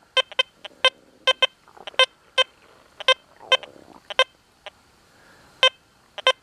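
Deus 2 metal detector giving a string of short, sharp beeps, all at one mid pitch and spaced irregularly, as the coil is swept over a gold ring lying near an iron nail. This is the detector's Bird Dog signal.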